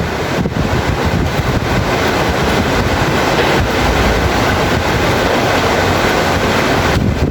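Heavy rain falling steadily, a loud even hiss of pouring water.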